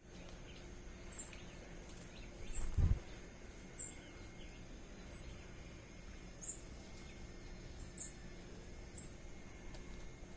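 A bird giving short, very high, downward-sliding call notes, seven of them, about one every second and a half. There is a dull low thump about three seconds in, over faint steady background hum.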